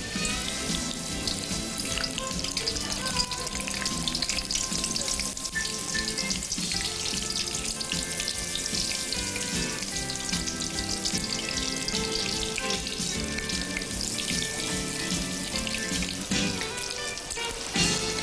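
Battered shrimp frying in hot oil in a stainless-steel skillet: a steady sizzle with fine crackling as the pieces go in, with background music playing.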